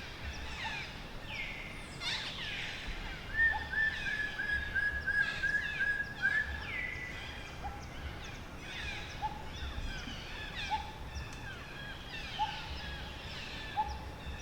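Forest ambience of many birds chirping and calling. A rapid series of repeated notes runs for about three seconds, a few seconds in, and a short lower call recurs every second and a half or so.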